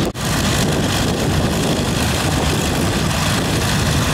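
Propeller aircraft engine running steadily, a continuous low, rumbling noise, after a sudden brief dropout right at the start.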